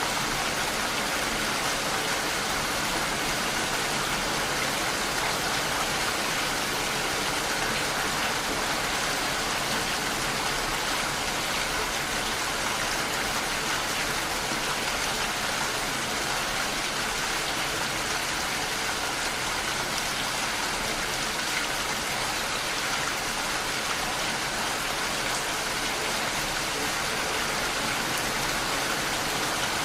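Steady rain falling, a constant even hiss with fine patter of drops.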